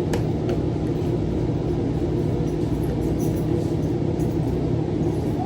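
Steady low mechanical hum and rumble that holds even throughout, with no distinct events.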